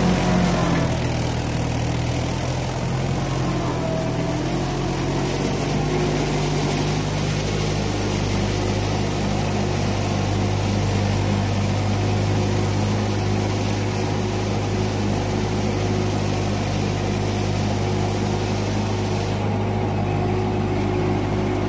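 Mahindra 585 DI XP Plus tractor's diesel engine running, settling after the first few seconds into a steady low idle.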